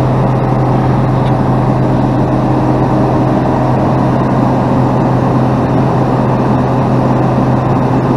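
Freightliner plow truck's diesel engine idling steadily, a constant low hum under an even rumble.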